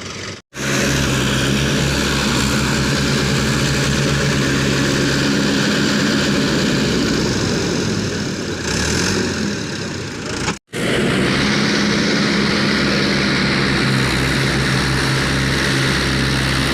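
Tractor engine running hard and steady: a low drone under a loud rushing noise. It drops out abruptly twice, about half a second in and about ten and a half seconds in.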